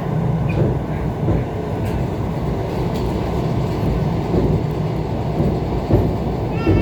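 ET2 electric train running along the line: a steady rumble of wheels on rails and running gear, with a few faint knocks.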